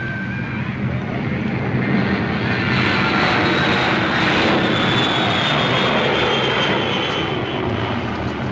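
An aircraft engine droning, swelling louder through the middle and easing off, with a thin high whine that slides slowly down in pitch.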